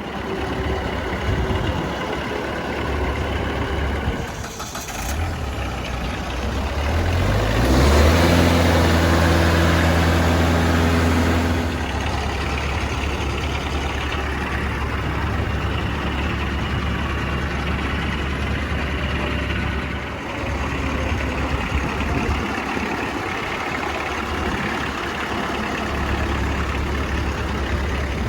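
Kubota compact tractor's diesel engine running steadily, revved up to a higher, louder speed about eight seconds in for around four seconds, then settling back.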